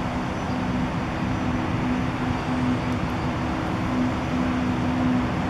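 Steady urban traffic noise with a constant low hum running under it.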